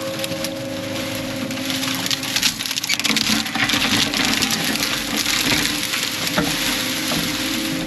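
Brush and branches cracking and splintering as heavy equipment crushes and tears them out, with the machine's engine running steadily underneath. The crackling grows denser about three seconds in.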